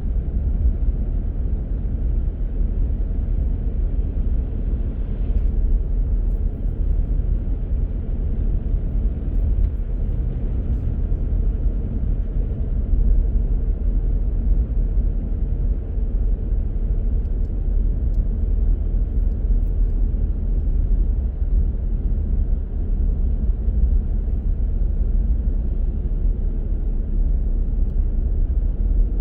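Car driving at a steady speed, a steady low rumble of tyres and engine heard from inside the car.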